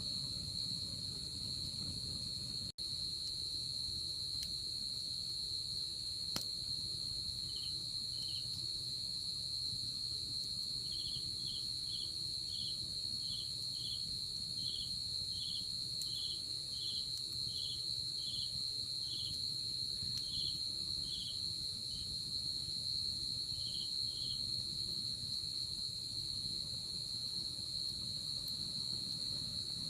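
Night insects calling: one holds a continuous high-pitched trill, while a second chimes in with a regular series of short chirps, about one and a half a second, from about a quarter of the way in until a little past the middle.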